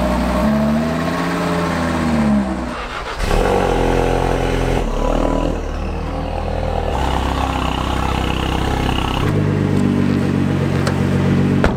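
Car engines running, with one revving up and back down about a second in; the engine sound changes abruptly several times.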